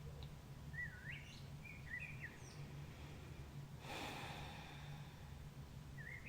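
Wild birds singing at dawn: a few short chirping phrases that glide up and down, with a soft breath or sigh about four seconds in, over a faint steady low hum.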